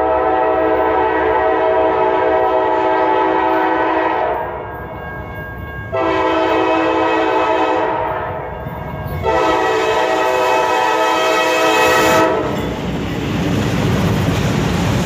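Locomotive air horn sounding three long chord blasts, the first about four seconds long, over the rumble of a passing train. After the third blast the train's rumble and clatter go on alone, then stop abruptly.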